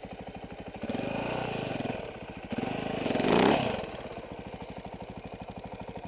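Husaberg FE570's single-cylinder four-stroke engine idling with an even beat. It is blipped twice, about a second in and again near the middle, the second rev higher and louder, then drops back to idle.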